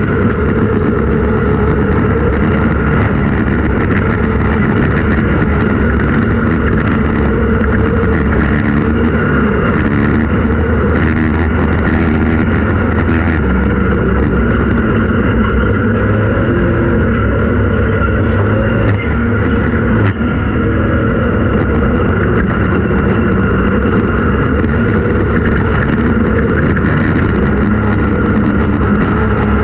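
Off-road race vehicle's engine running loud and steady at an even pitch, with only a brief dip around nineteen seconds in.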